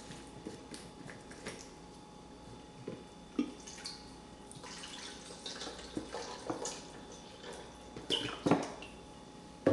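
Italian dressing poured from a bottle into the marinade: irregular glugs and drips, with a few light knocks of the bottle and container, the loudest right at the end.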